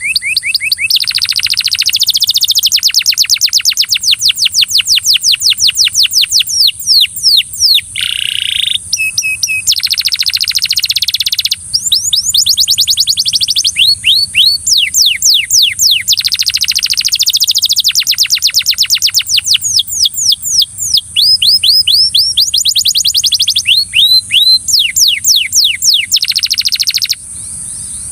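Belgian canary singing loudly and almost without a break: long runs of fast repeated trills, each run made of quick rising or falling notes, with short pauses between runs, stopping about a second before the end. A steady high chirring runs underneath.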